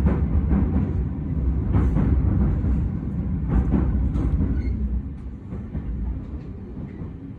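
Running noise of a commuter train heard from inside the carriage: a steady low rumble with a few sharp knocks, growing quieter about five seconds in.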